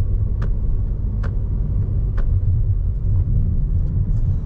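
Toyota Innova Hycross driving, heard from inside the cabin: a steady low road and tyre rumble, with faint sharp clicks about once a second in the first half.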